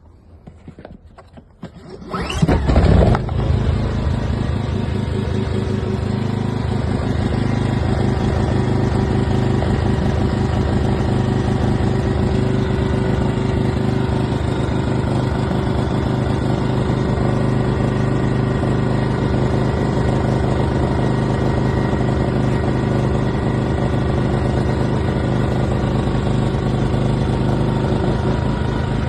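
Ryobi petrol inverter generator starting about two seconds in, loudest for a moment as the engine catches, then running steadily.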